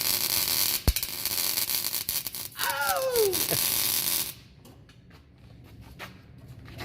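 Welding arc on an exhaust pipe, a steady crackling hiss that cuts off about four and a half seconds in. A sharp knock comes about a second in, and a person yells 'Ow!' around three seconds.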